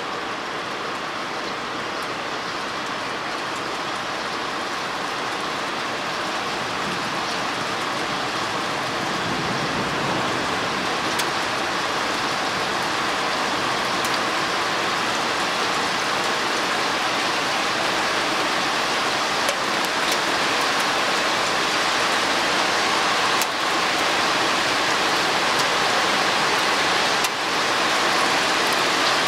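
Heavy storm rain pouring down, a dense steady hiss that grows gradually louder, with a few sharp ticks.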